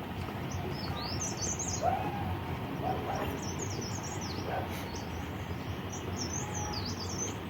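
Small birds chirping in short, high twittering phrases, heard several times over a steady outdoor background hiss.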